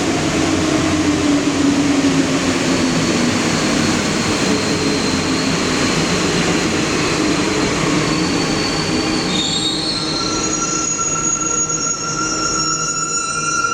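NS-16 metro train running through the station with a heavy rumble and a low motor tone falling in pitch. From about ten seconds in the rumble eases and high, steady squealing tones from the wheels and brakes come in.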